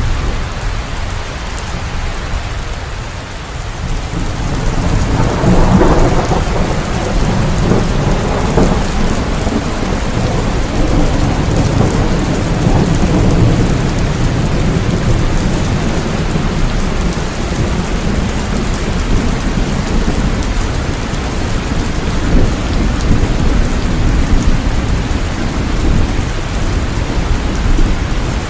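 Steady rain, with a deep low rumble that swells about five seconds in and rolls on under the rain.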